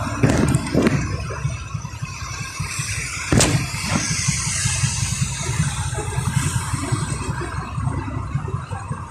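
Vehicle on the move: a steady low engine and road rumble with a hiss over it, and a sharp knock about three and a half seconds in.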